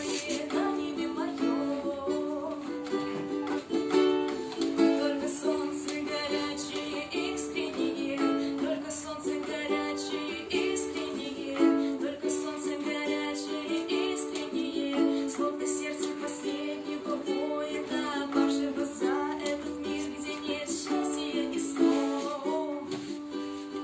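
Ukulele playing an instrumental passage of a song, strummed chords repeating in a steady rhythm.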